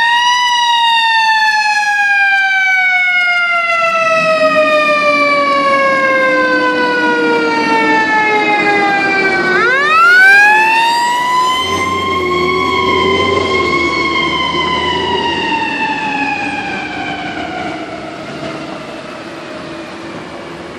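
Emergency vehicle siren wailing: it rises, falls slowly for about nine seconds, sweeps back up about ten seconds in, then falls again while fading. A steady lower drone sounds under it from about four seconds in.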